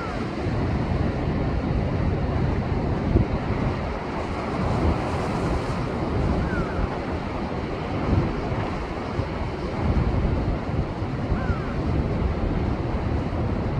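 Heavy surf from a post-typhoon swell breaking against shoreline rocks, a continuous rush of water with wind buffeting the microphone.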